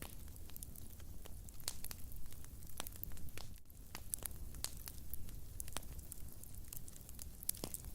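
Wood fire in a fireplace crackling, with many irregular sharp pops and snaps over a low, steady rumble of burning.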